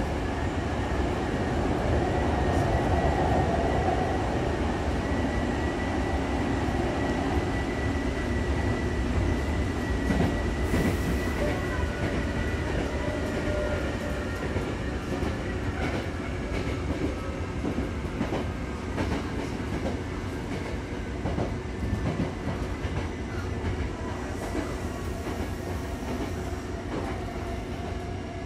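Hankyu Takarazuka Line train running between stations, heard from inside the car: a steady rumble of wheels on rail with clickety-clack from the rail joints and a thin steady whine. It is loudest a few seconds in and eases off toward the end.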